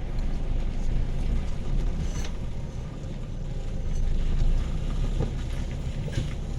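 Semi-truck's diesel engine running steadily at low revs, a low rumble, as the tractor-trailer creeps slowly downhill.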